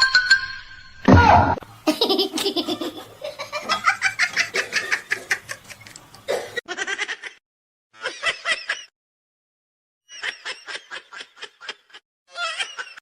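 Laughter in rapid, high-pitched pulses, coming in several bursts with pauses between them. A short, loud low thump comes about a second in.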